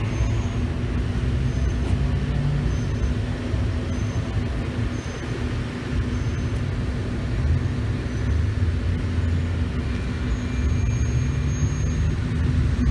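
Car engines and exhausts running as cars drive slowly past, the low rumble swelling twice as vehicles go by.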